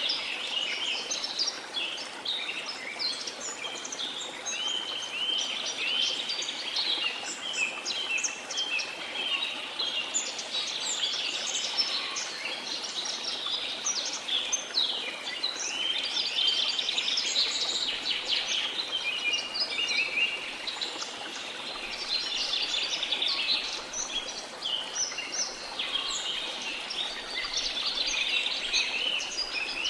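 Dense chorus of many jungle birds chirping and trilling without pause, over a steady rush of falling water.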